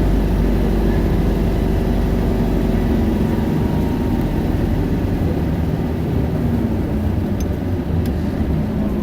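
Isuzu Erga 2KG-LV290N2 city bus's four-cylinder diesel engine running as the bus drives along, heard from inside the passenger cabin; the engine note shifts a little in pitch with a few faint clicks near the end.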